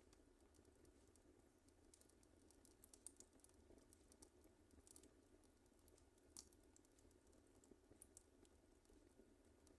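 Wood fire crackling faintly in a fireplace: irregular small snaps and pops, a few sharper ones around three, five, six and eight seconds in, over a soft low hiss.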